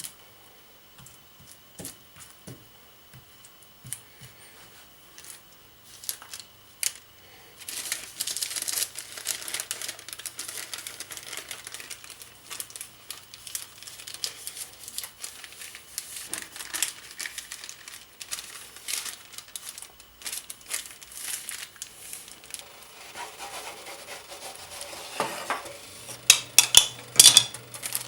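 Food-preparation handling: sparse light ticks, then a busy stretch of crinkling and crackling from about eight seconds in, with a few louder sharp clicks near the end.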